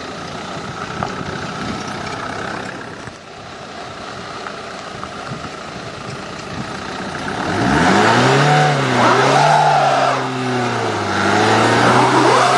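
Opel Astra car running on a dirt forest track. From about eight seconds in, its engine is revved harder, rising and falling in pitch several times.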